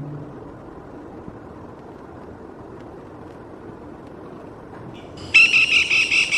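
Black-rumped flameback woodpecker giving its rattling call, a rapid series of harsh, loud notes starting about five seconds in. Before it there is only a low, steady background noise.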